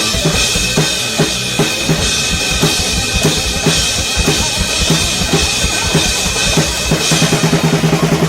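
Drum kit played at full tilt along to a progressive-metal track, with bass drum and snare strokes, and a fast, even run of strokes starting about seven seconds in.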